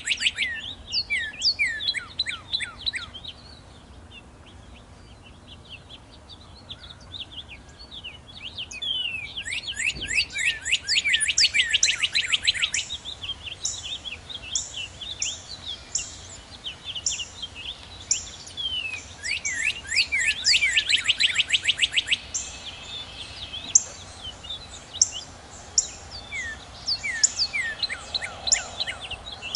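Northern cardinals singing: fast trills of repeated slurred whistles, several songs in turn, with a steady series of short, very high notes through the middle and later part.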